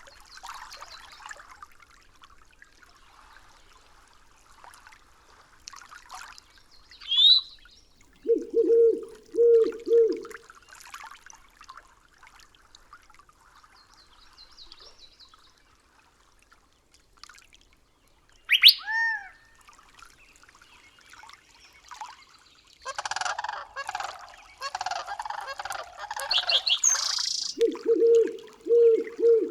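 Birds calling in a nature soundscape. A low call is given three times in quick succession about eight seconds in and again near the end, with higher chirps and a sweeping whistled call in between.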